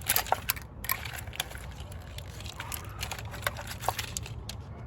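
Irregular clicks and light knocks of hand work in a car's engine bay, plastic wiring connectors and parts being unclipped and handled, with a cluster right at the start and a few scattered after. A steady low hum runs underneath.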